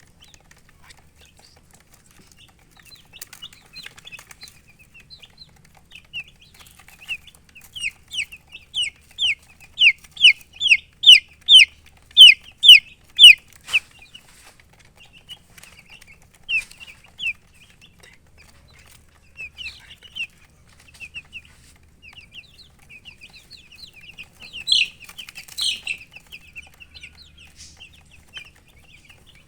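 Baby chicks peeping: short, high, falling chirps, scattered at first. Then comes a loud run of about two a second lasting several seconds, then scattered chirps again with another louder cluster late on.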